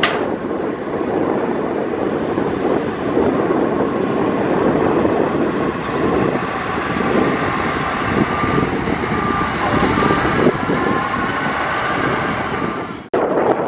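Heavy earthmoving machinery at work: a diesel engine runs steadily, with a faint high whine partway through. The sound cuts out for an instant near the end.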